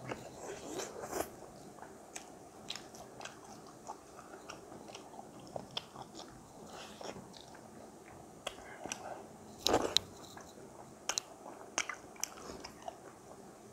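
Close-miked eating sounds of a person eating maize-flour dhido (makai ko aato) with spicy sauce by hand: chewing and smacking with many short wet clicks, and one louder smack just before ten seconds in.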